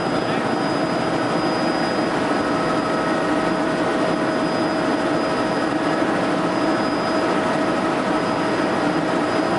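Helicopter in flight: a steady drone of rotor and engine with a constant high turbine whine running over it.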